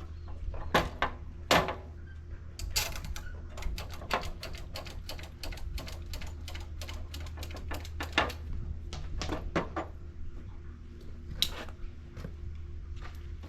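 Irregular sharp clicks and knocks over a steady low hum, with the loudest knocks about a second in, at one and a half seconds, and around eight seconds.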